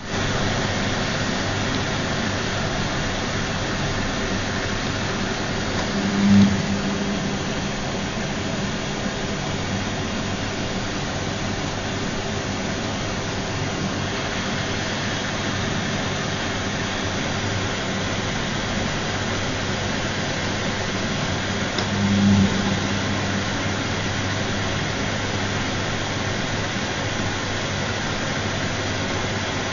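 Gala GL605T front-loading washing machine running, a steady loud whirring hum with no distinct sound of clothes tumbling, swelling briefly into a deeper hum twice. The owner takes this low hum as a sign that the programme is not working properly.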